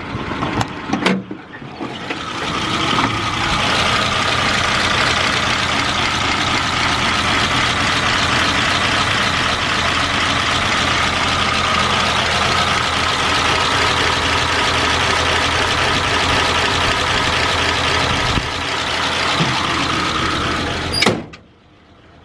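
1951 Ford F-1's flathead V8 engine running steadily at idle, with a steady high tone over the engine noise. A few knocks come first, and the sound cuts off sharply near the end.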